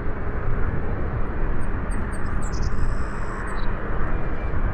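Steady rushing noise of a jet airliner on approach, mixed with gusty wind on the microphone. A few short high chirps, like a small bird, come in the middle.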